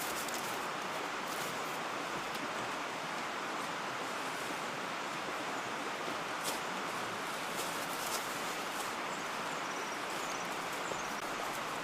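A mountain stream flowing, a steady rush of water. A few faint high chirps come near the end.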